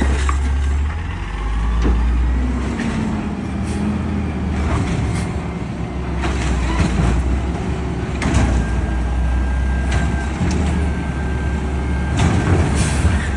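Peterbilt 520 garbage truck's diesel engine running with a steady low drone, with short sharp knocks and hisses now and then. A thin steady whine joins past the middle.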